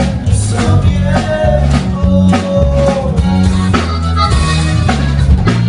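Band music with a sung Spanish vocal line over bass, guitar and drums. The voice holds a long note that falls at its end, and the instruments carry on after it.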